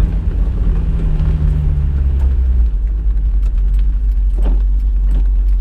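Honda S2000's 2.2-litre four-cylinder engine with a Tanabe Medallion Touring exhaust, running steadily while driving; about two and a half seconds in its note drops lower, as when easing off or changing gear.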